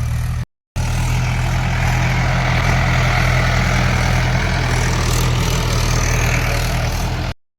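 Mahindra 575 XP tractor's diesel engine running steadily, likely pulling a nine-tine cultivator. The sound cuts out completely for a moment just after the start and again near the end.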